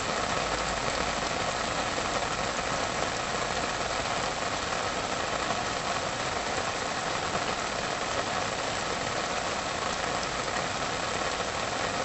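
A steady, even hiss with no distinct events, strongest in the middle and upper range.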